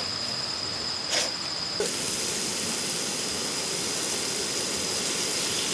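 Night insects, likely crickets, keep up a steady high-pitched trill. A steady hiss comes in suddenly about two seconds in and stays.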